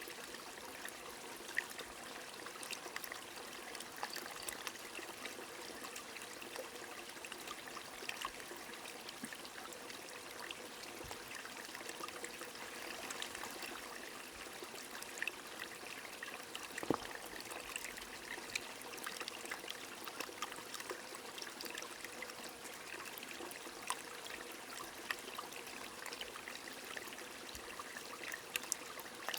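Small stream trickling steadily, with scattered drop ticks of light rain over it. One louder drop lands about halfway through.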